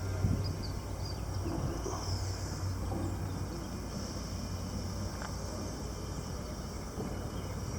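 Utility saw truck running with a steady low hum and no change in pace.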